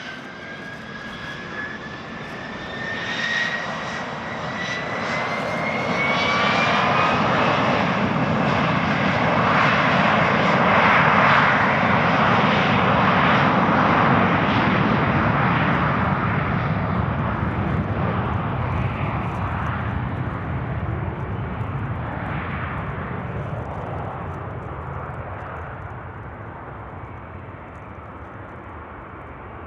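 Business jet's engines on the runway, a turbine whine rising in pitch over the first several seconds under a broad roar. The roar swells to its loudest near the middle and then slowly fades as the jet moves away.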